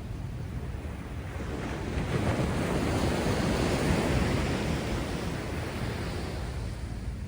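Heavy surf: a wave builds and breaks in a swelling rush of noise that peaks a few seconds in and then ebbs, over a steady low rumble with wind on the microphone.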